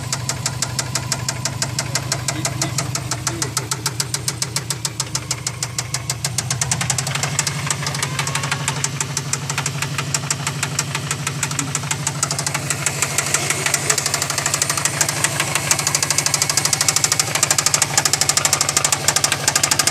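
Subaru engine running with a fast, regular knocking, a little louder in the second half. The people listening place the mystery noise near cylinder number 4 and wonder whether something in the turbo is unbalanced.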